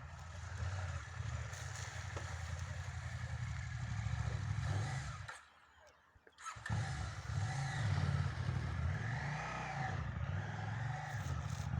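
Trail motorcycle engine running and revving up and down, its pitch wavering with the throttle. Near the middle the sound drops out almost completely for about a second, then the engine comes back revving.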